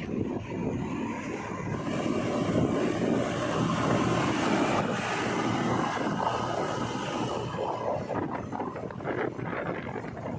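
Diesel engine of heavy machinery running steadily, its level rising and falling a little.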